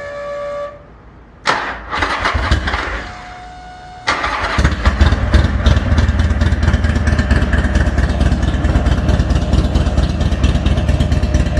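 Cold start of a 2004 Buell XB12S Lightning's air-cooled V-twin through a Special Ops exhaust. The starter cranks, and about four seconds in the engine catches and settles into a loud, steady rumble at idle, made louder by the garage.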